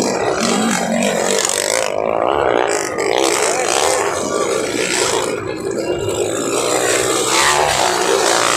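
Several underbone motorcycle engines revving together, their pitch rising and falling as the bikes race.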